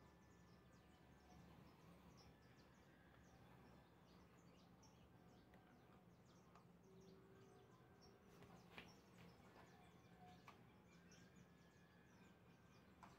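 Near silence: faint outdoor ambience with small birds chirping in short repeated calls in the background, and a couple of faint clicks about two-thirds of the way through.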